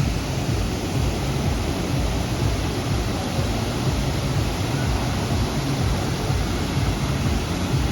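Waterfall's water rushing and falling into its pool: a steady, loud roar.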